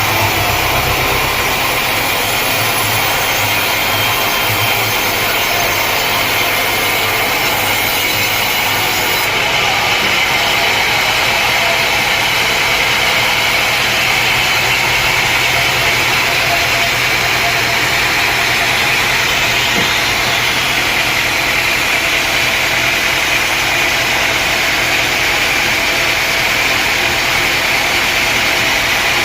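A sawmill's engine running steadily, with a constant loud mechanical noise throughout.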